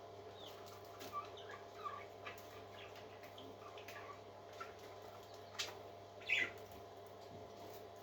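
Faint, short peeps and chirps from a parrot chick, scattered and irregular, with the loudest about six seconds in, over a steady low hum.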